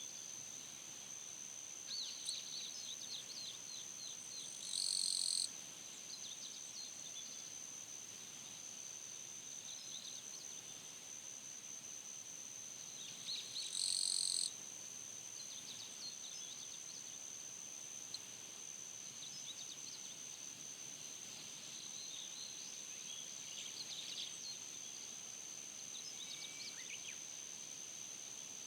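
Summer early-morning insects and birds: an unbroken high-pitched insect trill with scattered bird chirps over it. Twice, about five seconds in and again around fourteen seconds, a short loud buzzing call stands out above the rest.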